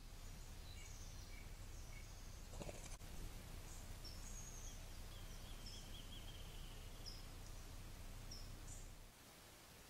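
Faint songbird calls: short high chirps and a brief trill, over a low steady rumble that cuts off near the end. A brief knock about two and a half seconds in.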